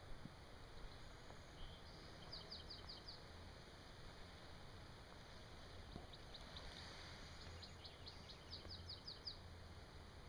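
Faint birdsong over a quiet open-air background: a bird gives a quick run of about five short high chirps about two seconds in, then a longer run of rapid chirps from about six to nine seconds.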